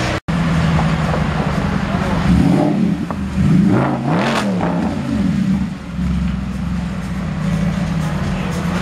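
Mercedes SLS AMG's 6.2-litre V8 idling with a steady low note, revved a few times in the middle, the pitch rising and falling with each blip.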